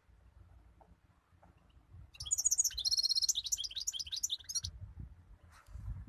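European goldfinch singing: a rapid burst of high twittering notes starting about two seconds in and lasting about two and a half seconds.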